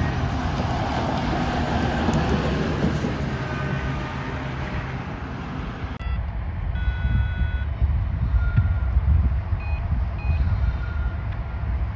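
Freight train hopper cars rolling past on steel rails with a steady rumble. About halfway through, this gives way to a low rumble of wind on the microphone, with a few short high beeps.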